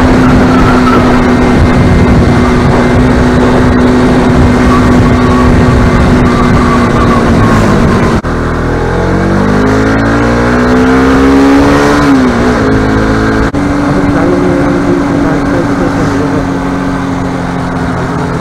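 Bajaj Pulsar RS200 single-cylinder motorcycle engine heard from the rider's seat, cruising at a steady pitch under wind noise. About eight seconds in the sound changes abruptly, and the revs climb for a few seconds before dropping back. After another abrupt change near thirteen seconds it cruises steadily again, easing off near the end.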